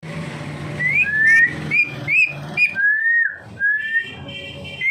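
Whistling: about six short whistles rising in pitch in quick succession, then two longer, slower rising whistles in the middle, over a low steady hum.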